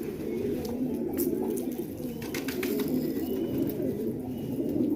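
Several domestic pigeons cooing together in a continuous low, burbling chorus, with a few light clicks among them.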